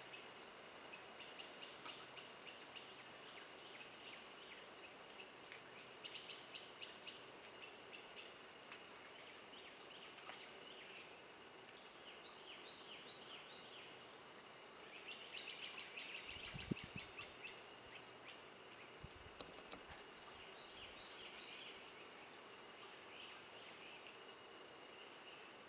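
Faint swamp ambience of several wild birds calling: short high chirps repeating about once a second, with bursts of rapid trilling now and then. A single brief low thump about two-thirds of the way through.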